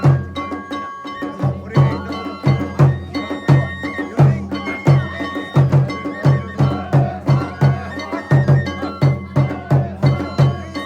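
Kagura music: a drum beating in a steady, fast rhythm of a few strokes a second, with a sustained high flute-like melody and sharp percussive clicks over it.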